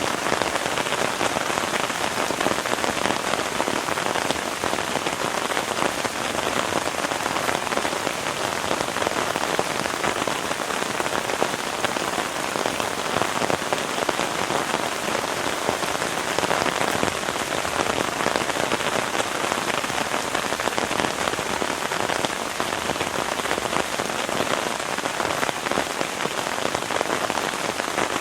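Heavy rain falling steadily, a dense, even patter with no pauses.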